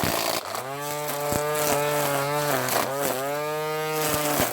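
Ryobi Easy Edge battery string trimmer running, its motor and spinning line head humming at a steady pitch after spinning up at the start, with a few brief dips in speed. The head now spins freely, its seized housing cleared of tangled line.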